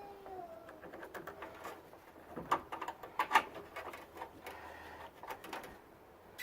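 Scattered light knocks and clicks of parts and tools being handled while a radiator is set into its mounting brackets, with a cluster of sharper knocks about three seconds in.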